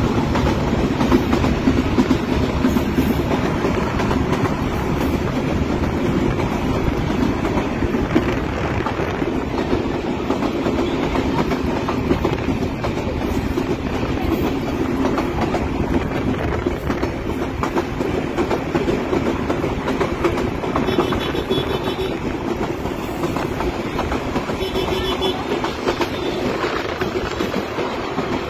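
Rangpur Express intercity passenger train running steadily alongside, heard from a moving CNG auto-rickshaw beside the track, so the train's noise is mixed with the rickshaw's own running and road noise.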